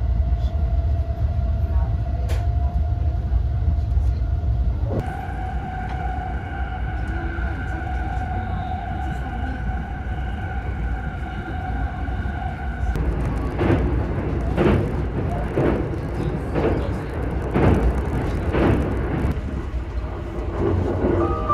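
Electric express train running at speed, heard from inside the carriage: a steady low rumble with a steady high hum through the first half. In the second half come rhythmic wheel clacks over rail joints, about one a second.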